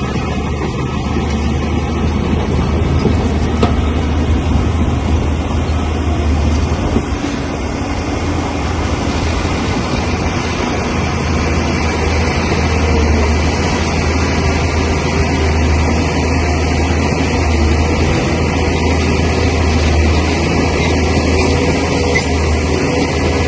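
Heavy bulldozer diesel engine running steadily under load.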